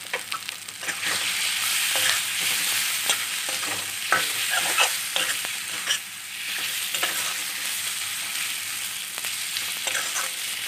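Boiled jackfruit seeds frying in spiced oil in a metal kadai, sizzling steadily while a metal spoon stirs them, with repeated clicks and scrapes of the spoon against the pan.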